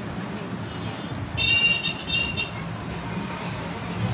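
Steady street traffic noise, with a brief high-pitched horn-like toot in two short parts about a second and a half in.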